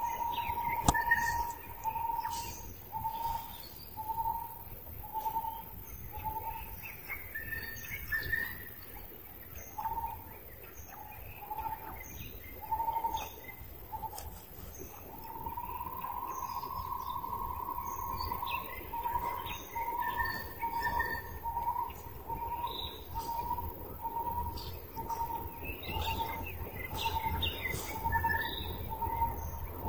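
Wild birds calling: one bird repeats a short mid-pitched note over and over and holds it as one long note for a few seconds about midway, while other birds add scattered higher chirps.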